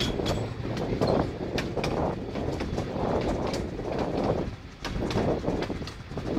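Narrow-gauge steam train running, heard from an open carriage window: the carriage wheels click over the rail joints and the coaches rattle, with a rhythmic rise and fall of the running noise.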